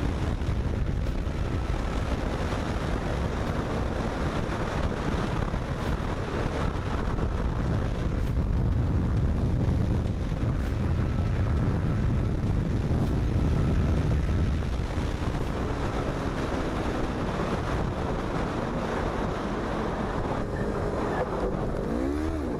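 Motorcycle running at speed with heavy wind noise on the microphone, a steady rumble. Near the end the engine note dips and rises again.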